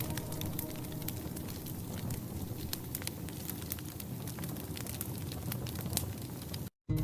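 Wood campfire crackling: frequent sharp pops and snaps over a steady hiss. The sound cuts out completely for a moment near the end.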